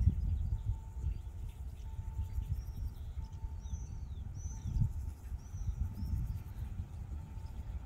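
Outdoor low rumble of wind on the microphone, with a bird giving about half a dozen short, falling chirps in the middle.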